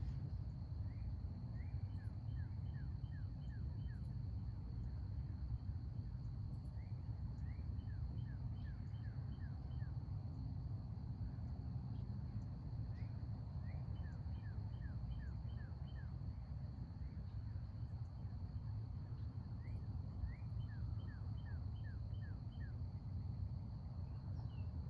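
Outdoor ambience: a songbird repeats a short phrase of quick down-slurred notes with higher chips about every six seconds, over a steady high insect drone and a low rumble.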